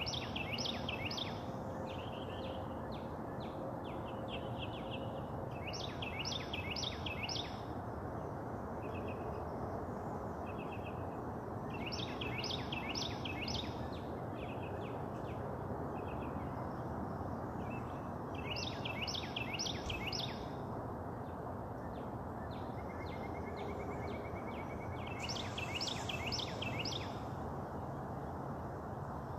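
A songbird singing a short repeated phrase of four or five quick down-slurred whistled notes, about every six seconds, with softer chirps between. Under it runs a steady outdoor background rush.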